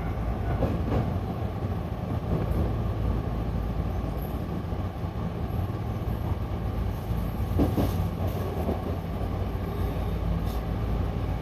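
Hankyu Imazu Line local train running between stations, heard from inside the carriage: a steady low rumble of motors and wheels on the rails, with a few brief clicks, one about a second in and one near the end.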